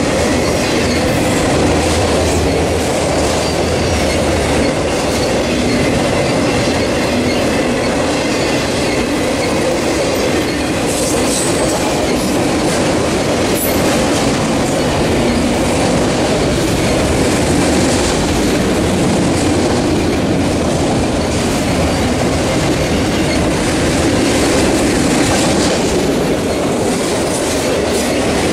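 Freight train of multi-level autorack cars rolling past close by: a steady, loud rumble of steel wheels on rail that holds level throughout.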